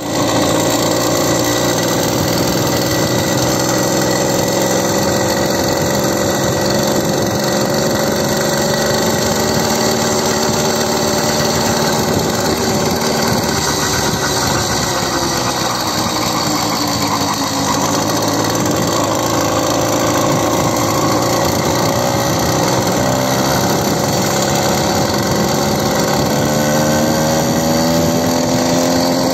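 A motor vehicle's engine running steadily, its pitch slowly falling and then rising again as the revs change.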